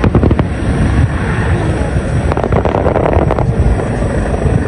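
Aerial fireworks going off: a low rumble of shell bursts under clusters of sharp crackling pops, one cluster at the start and a denser one from about two and a half to three and a half seconds in.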